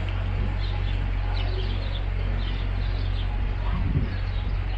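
Small birds chirping again and again over a low, steady hum, with a dull knock about four seconds in.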